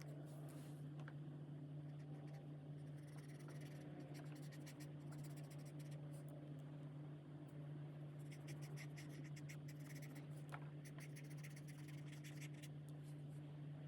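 Chen Rui alcohol marker tips rubbing across coloring-book paper in quick, rapid back-and-forth strokes. The strokes come in two spells, a short one and then a longer one, over a steady low hum.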